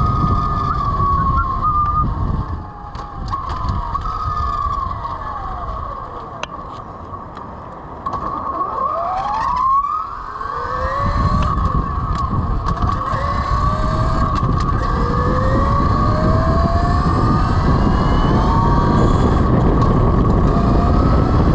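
Velimotors VMX12-F electric motorcycle's 12 kW motor under way: a high-pitched electric whine over wind rumble. The whine slides down as the bike slows in the first part, climbs sharply as it accelerates about halfway through, then rises again in several steps as the speed builds and the rumble grows louder.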